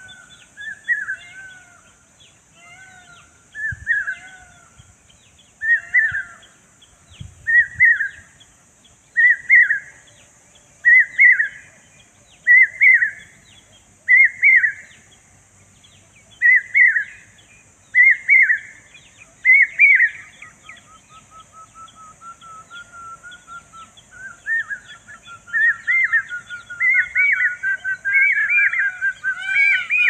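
A bird calling over and over: a loud, short note repeated about every one and a half to two seconds, each a little higher than the last. Near the end come a softer run of quick notes and then a faster series of overlapping calls.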